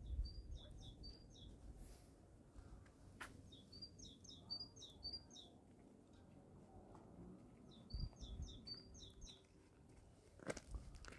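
A small songbird singing three short phrases, each a quick run of alternating high and low chirps, about four seconds apart.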